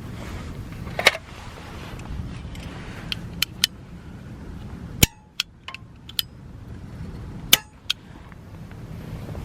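A series of sharp metallic clicks and clinks, about nine in all and unevenly spaced, the loudest about a second in, halfway through and near the end. They sound over a steady low rumble.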